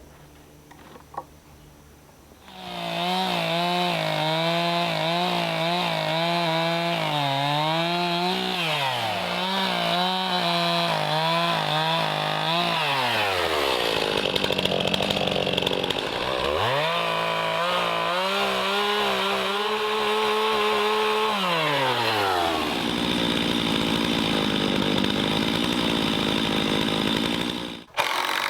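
Stihl MS 291 chainsaw running at high revs, its pitch wavering as it works. It drops away twice, about halfway through and again later, and climbs back up in between.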